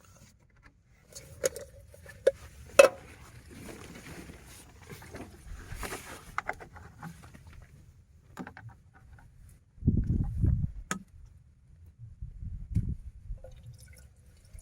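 Handling noises: a few sharp knocks and clicks of objects being set down or moved, then rustling. Near the end come heavy low rumbling gusts, like strong wind buffeting the microphone.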